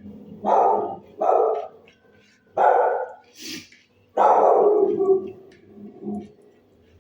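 A dog barking: four barks, the last one drawn out and trailing off.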